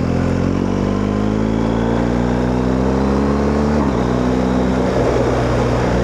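BMW R1250GS 1254 cc boxer-twin engine with an Akrapovič exhaust accelerating in one gear, its pitch rising steadily for nearly four seconds. A short dip at an upshift follows, then it pulls again and settles into a steady run.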